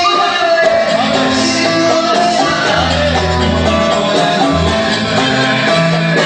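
Live pop band music, with a held lead melody line over changing bass notes.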